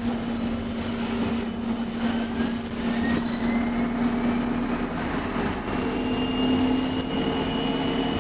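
Bus engine running under way, heard from inside the cabin, with a high turbocharger whine that slowly rises in pitch as the bus picks up speed.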